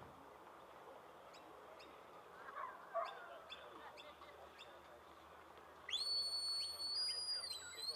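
Sheepdog handler's whistle command near the end: one long, clear note that rises as it starts, holds, then steps up in pitch and comes back down.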